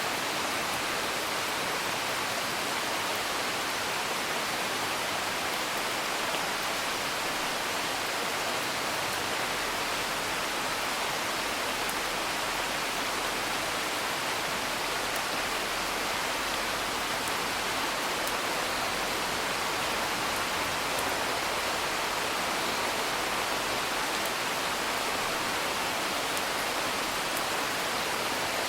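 Steady, even rain hiss with no letup, with a few faint crackles from a wood fire scattered through it.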